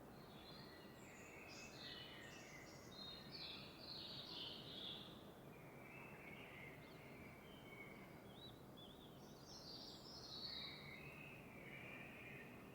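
Several birds calling and chirping faintly in a dawn chorus, over a steady low hiss of background noise.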